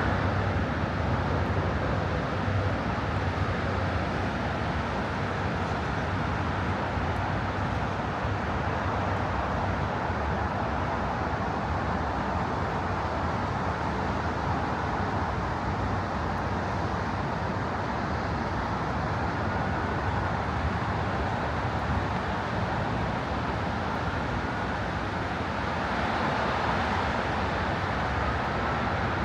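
Steady road traffic noise, an unbroken rush of passing vehicles, with a few faint rising whines now and then.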